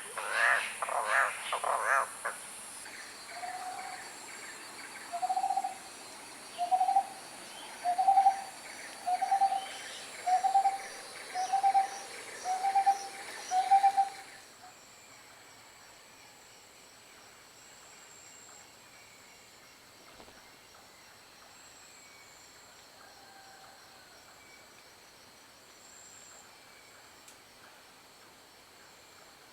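A forest bird calls a single short, low note over and over, about once a second, after a few louder harsh calls at the start. Just under halfway through it cuts to a faint forest background with a thin, steady insect whine.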